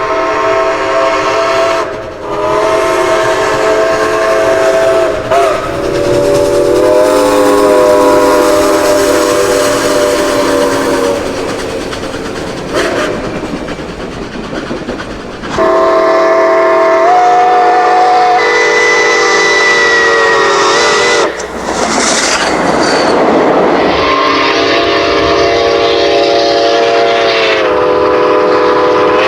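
A run of long train whistle blasts, each a steady chord of several tones held for seconds, cut abruptly from one recording to the next, with the pitch stepping up partway through one of them. A short rush of noise breaks in about three-quarters of the way through.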